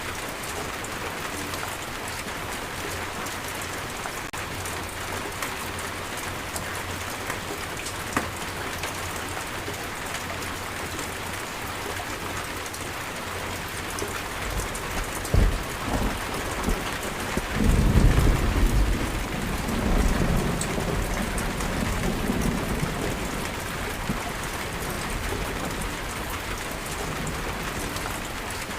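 Steady heavy rain falling, with a thunderclap about halfway through: a sharp crack followed by a deep rolling rumble that swells and fades over several seconds.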